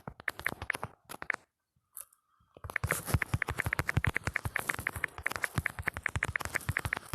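Smartphone on-screen keyboard clicking with each key press during fast typing, several clicks a second, with a pause of about a second early on.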